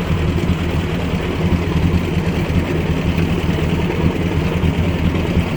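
1957 Ford 841 tractor's four-cylinder gasoline engine running steadily at a low, even speed on its newly fitted replacement carburetor.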